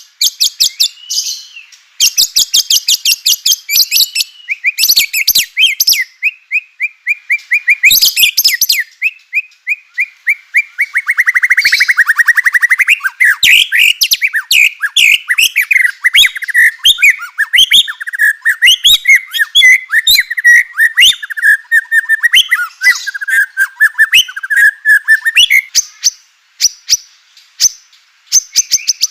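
White-rumped shama (murai batu) singing a loud, rapid song of fast rattling note trains and quick, varied whistled phrases.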